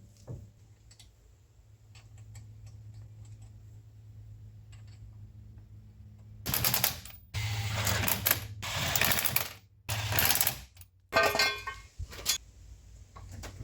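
A few faint clicks, then a power tool running in several short loud bursts with sudden stops between them, as the steering rack boot and tie-rod parts are refastened.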